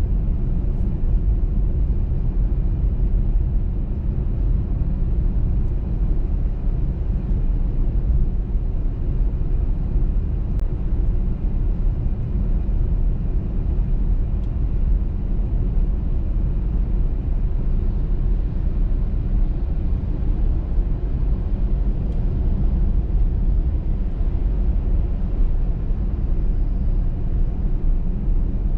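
Steady low rumble of a car driving at speed on a snowy motorway: tyre and road noise with the engine underneath, unchanging throughout.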